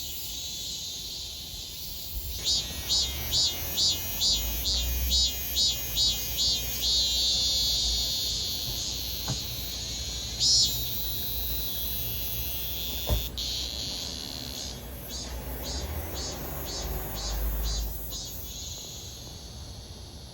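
Cicadas calling: a steady high buzz, then a run of loud pulsed notes at about two a second that merge into a continuous drone, with a second run of pulses later on before the sound fades near the end.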